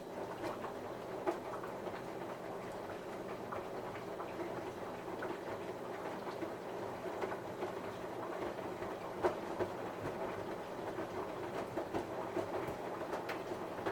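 Samsung washing machine running a cotton cycle: a steady motor hum with many irregular light clicks and taps over it, which starts at the outset and drops away near the end.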